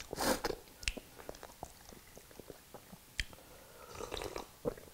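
A person chewing a mouthful of soup, with soft wet mouth clicks and smacks. About four seconds in there is a brief sip and swallow from a glass of iced drink.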